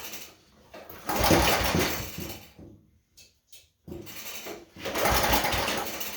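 Gilson Brothers snowblower engine cranked twice on its recoil pull-starter, about a second in and again near the end; each pull spins the engine briefly with a fast chugging, but it does not catch, which the owner suspects means it is out of gas.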